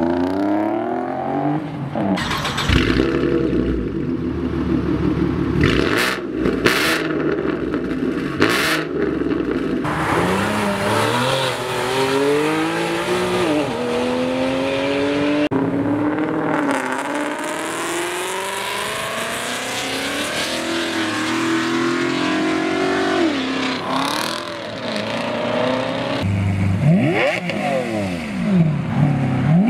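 Car engines revving and accelerating, in a run of short clips that change abruptly, with engine pitch climbing as the cars pull away. A few sharp cracks come in quick succession about a third of the way in.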